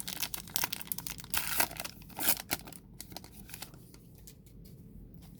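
A baseball card pack's wrapper crinkling and tearing as it is opened. It crackles densely for about the first three seconds, then settles into fainter rustling.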